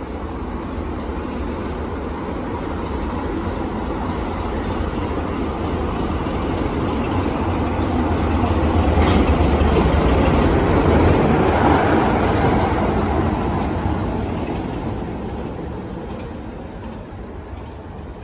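A train passing, its rumble growing louder to a peak around the middle and then fading away.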